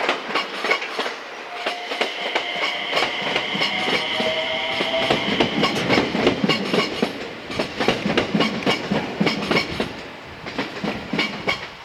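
Train running on the rails, wheels clicking rhythmically over rail joints, with a high squealing tone for a few seconds early on. The clatter fades near the end.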